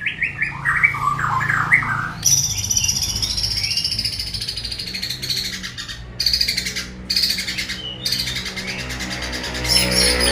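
A Bornean white-rumped shama sings a long, varied song. It opens with quick chipping notes, then switches to high rapid trills and warbles. The song is typical of a shama trained with mimicked calls of other birds, such as the cililin and the sparrow. A faint steady hum runs underneath.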